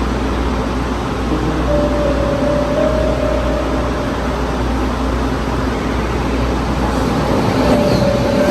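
Train running on the rails: a steady rumble of wheels and carriage, with a faint steady whine that comes in about two seconds in and again near the end.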